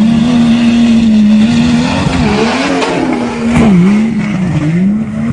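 SUV engine revving hard as the vehicle drives across loose sand, its pitch rising and falling with the throttle. It gets loudest as it passes close by, with a sharp knock about three and a half seconds in.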